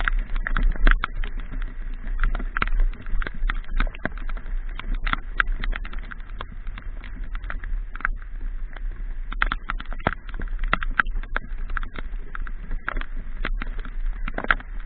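Raindrops striking the camera or microphone during a motorbike ride in the rain: many irregular sharp clicks over a steady low rumble.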